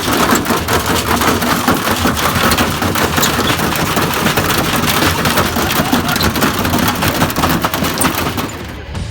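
Washing machine rattling and banging hard as it runs, a dense, fast clatter of knocks with no let-up, dropping away just before the end.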